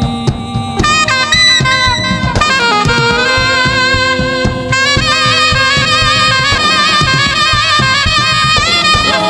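Live saxophone playing a melodic line with vibrato over a drum kit, in a gospel band.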